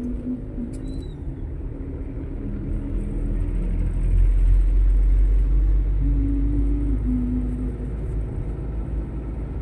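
Motor vehicle on the road: a low rumble that builds to its loudest about halfway through and then eases off, with a few held low hums over it.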